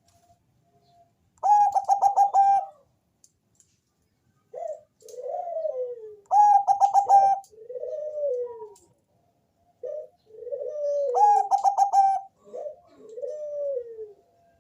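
Zebra dove (Thai-bred 'perkutut bangkok' song line) singing: three song phrases, each a rapid stuttering run of notes followed by a few falling coos, repeating about every five seconds.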